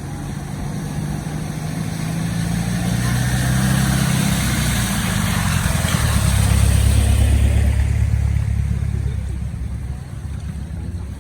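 A motor vehicle driving through floodwater and passing close: its engine running under a swishing wash of water, growing to a peak about seven seconds in and then fading away.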